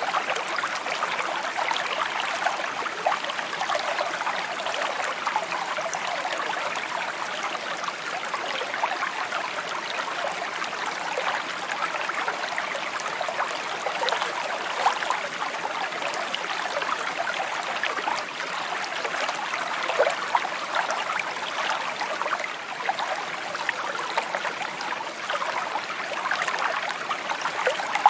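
A shallow stream trickling and babbling over stones in a steady flow, with many small gurgles and splashes.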